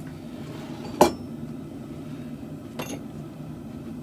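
A loud metal-on-metal knock about a second in and a fainter, ringing clink near the end, over a steady low hum.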